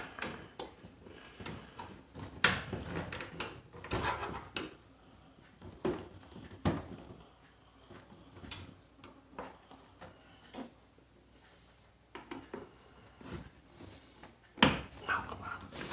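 Plastic keyboard case being pried apart with a screwdriver: irregular clicks, knocks and creaks of plastic and metal on plastic, with sharper snaps about two and a half seconds in and again near the end.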